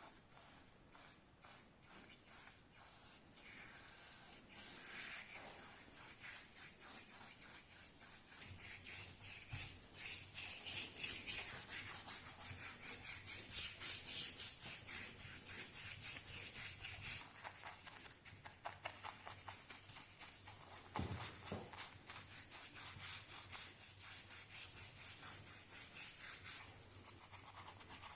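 Hand abrading of the safe's rusty steel surface, with rapid repeated rubbing strokes: sanding or scrubbing during rust removal and surface preparation. The strokes are fainter for the first few seconds, then busier and louder.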